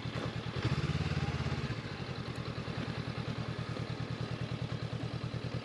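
Honda CB500X parallel-twin engine running at low revs with an even pulsing beat, rising briefly for about a second on a touch of throttle about half a second in.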